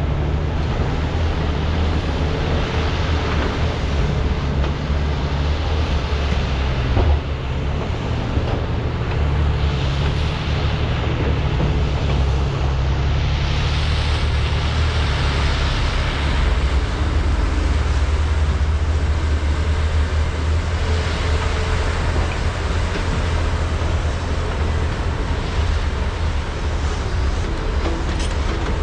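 Large hydraulic excavators' diesel engines running steadily under load, a deep continuous drone whose higher hiss swells and fades several times as the machines dig and swing. A single short thump about seven seconds in.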